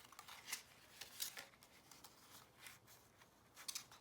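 Cardstock being handled on a craft table: a few short, crisp paper rustles and taps, the sharpest about a second in and near the end.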